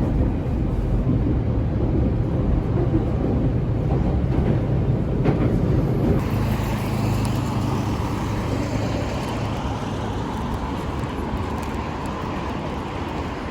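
Tokyo Metro subway train running: a steady low rumble, with a hiss building from about halfway through.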